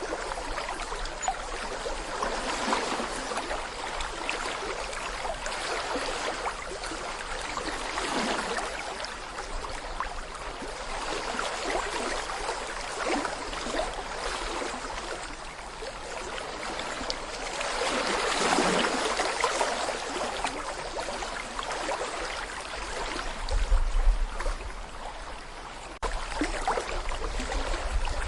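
Small brook babbling over stones, a steady rush of flowing water that swells and eases every few seconds. About two-thirds of the way through comes a brief low rumble, the loudest moment.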